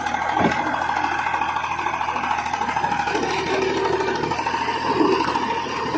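Tractor engine running steadily with an even, rapid firing rhythm.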